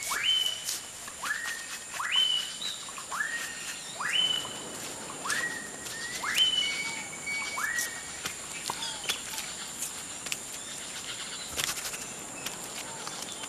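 Forest ambience: a bird calling a series of rising whistles, about one a second, alternating between two pitches, which stop about eight seconds in. A steady high insect drone runs underneath.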